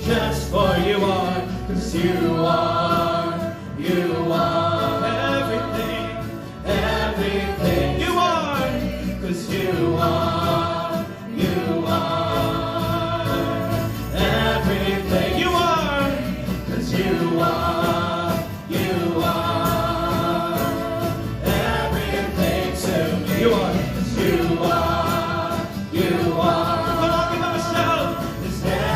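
Christian worship song: several voices singing long held notes in phrases of a few seconds, over an accompaniment with a steady bass line.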